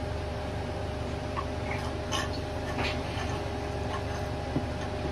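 Steady running hum and rumble inside a train carriage, with a few faint short sips through straws from juice cartons.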